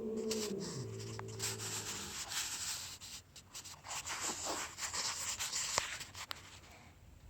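A cat's long, low drawn-out yowl that drops in pitch about a second in and ends after about two seconds, followed by several seconds of rough, scratchy noise.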